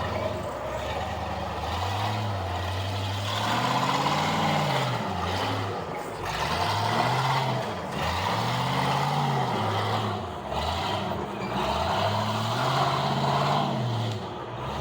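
Off-road vehicle engine revving in repeated swells, its pitch rising and falling about four times as the driver works the throttle on a rocky climb.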